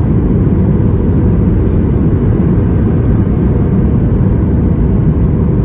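Steady low cabin noise inside a Boeing 737 MAX 8 in flight, a mix of its CFM LEAP-1B engines and airflow, heard from a window seat.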